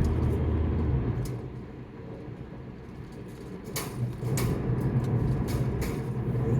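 Car engine and road noise heard from inside the cabin: a steady low drone that eases off about a second in, then comes back up, with several short sharp clicks over it in the second half.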